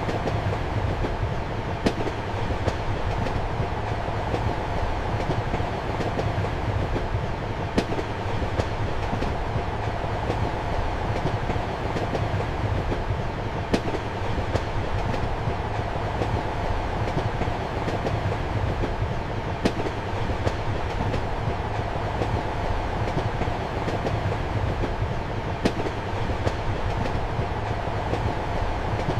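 Steady rumble and rolling noise of a passenger train in motion, heard from inside a compartment, with a sharp click from the wheels about every six seconds.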